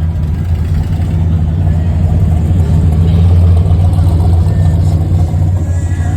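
A car engine running with a loud, deep, steady rumble, swelling slightly around the middle before easing back.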